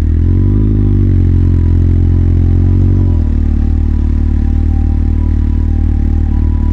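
Motorcycle engine running at low revs. Its speed rises a little just under a second in, holds there until about three seconds in, then drops back to a steady idle-like beat.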